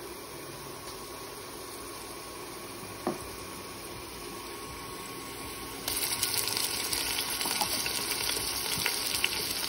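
Onions and ginger-garlic paste frying in hot oil in a pan, a low steady sizzle with a single sharp click about three seconds in. About six seconds in, the sizzle suddenly becomes louder and hissier.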